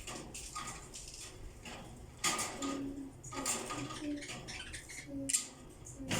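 Pet lovebirds chattering: short, sharp chirps and squeaks scattered irregularly, busiest in the second half.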